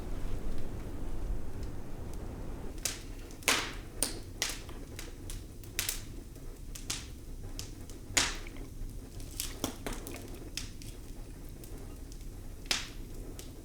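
Wood fire crackling in a fireplace, with irregular sharp pops, about a dozen, starting a few seconds in after some low rumbling.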